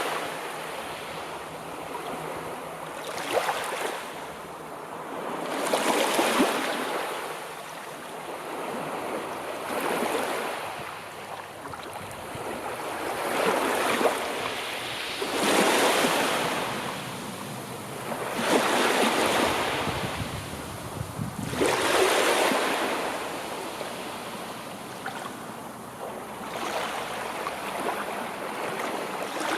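Sea waves breaking and washing on the shore, each wave swelling into a rushing hiss and drawing back, one every few seconds.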